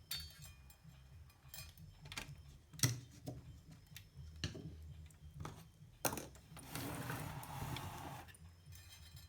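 Wire cutters snipping and small clicks of hand tools on hookup wires, with a stretch of scraping or rubbing about seven to eight seconds in.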